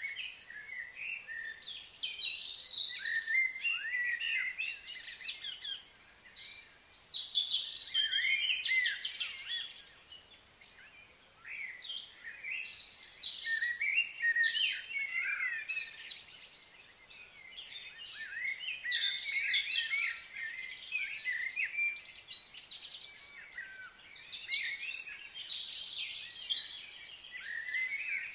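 Many small birds chirping and twittering in overlapping calls, in waves that swell and fade every few seconds.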